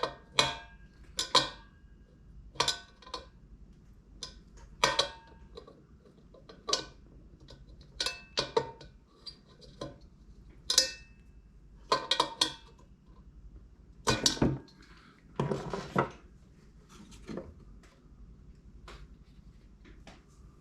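Hand tools and metal heater parts clinking and clanking irregularly: a dozen or so sharp clinks, some ringing briefly, with a longer rattling scrape about three quarters of the way through.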